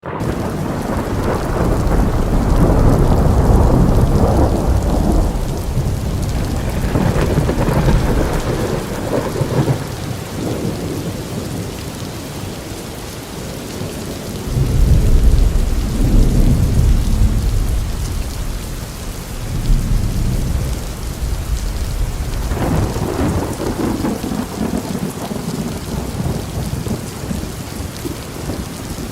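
Steady rain with deep, rolling thunder. A long rumble runs through the first ten seconds or so, another comes about halfway through, and shorter ones follow near the end.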